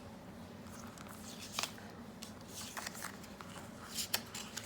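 Quiet room tone with a few faint, sharp clicks and taps: one about a second and a half in, a small cluster near three seconds, and two close together near the end.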